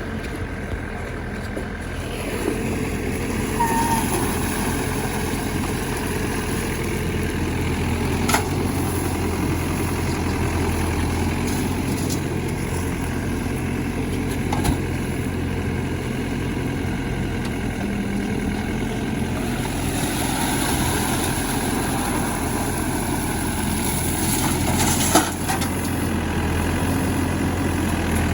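A heavy vehicle's diesel engine running steadily, a little louder after about two seconds, with three sharp knocks along the way.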